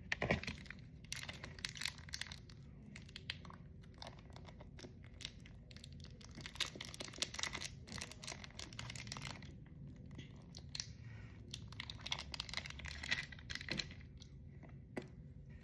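Small toy packaging being handled and torn open by hand, with scattered crinkles, rustles and clicks.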